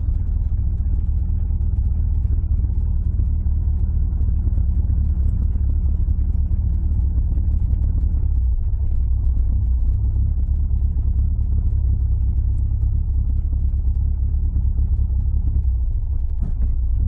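Toyota AE86's 4A-G twin-cam four-cylinder engine running as the car is driven, heard from inside the cabin as a steady low drone.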